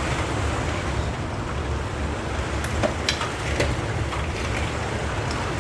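Very strong wind and heavy rain in a sudden storm: a steady rushing noise with a deep rumble, broken by a few sharp ticks around the middle.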